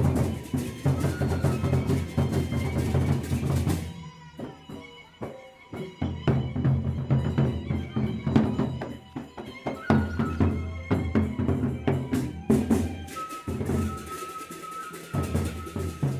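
Gendang beleq ensemble playing: large double-headed drums beating with cymbal strokes, over which a suling bamboo flute holds a thin melody. The low drum sound drops away briefly about four seconds in and again near the end, leaving the flute and lighter strokes.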